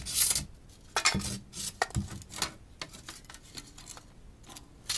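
Handling noise from a camera being moved and set down: a rustle at the start, then clicks and knocks around one and two seconds in, thinning to a few faint clicks.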